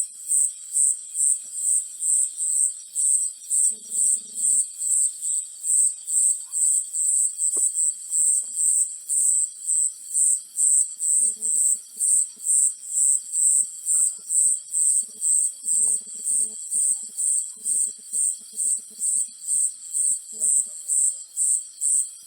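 A cricket chirping in a steady rhythm of high-pitched chirps, about two and a half a second, over fainter steady insect trills. Faint low pulsed calls come and go in the background.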